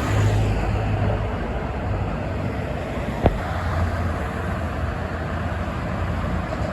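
Highway traffic with trucks going by: a steady rumbling roar of engines and tyres with a low hum underneath. One sharp click about three seconds in.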